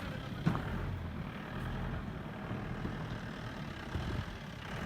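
Motor vehicle engine running steadily with a low rumble, with one short click about half a second in.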